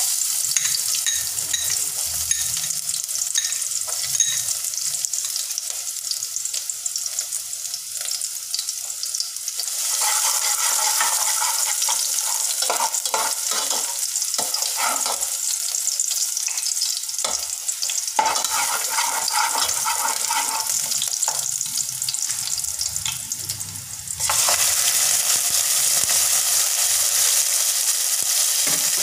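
Chopped garlic sizzling in hot oil in a metal pot, with a spatula scraping and knocking against the pot as it is stirred from about a third of the way in. Near the end the sizzle turns suddenly louder as raw chicken pieces go into the oil.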